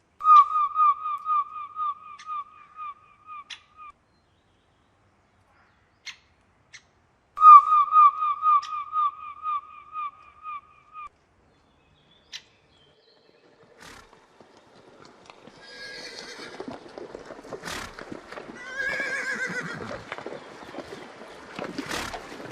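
Two loud runs of quick, short calls, all on one high pitch and fading over about three seconds each. Then, about two-thirds of the way in, a horse whinnies twice amid rustling and a few sharp knocks.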